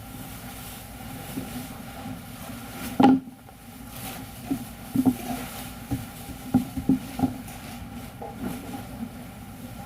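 Glue-cutting machine running through its cycle: a steady machine hum with a series of sharp mechanical knocks and clicks. The loudest knock comes about three seconds in, and a quicker cluster of clicks follows in the middle of the stretch.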